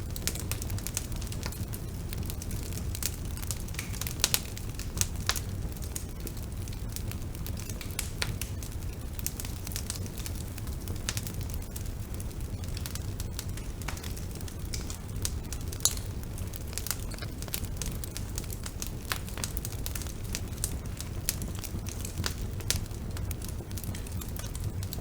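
Bonfire burning, a steady low rumble with irregular crackles and occasional sharper pops of the burning wood.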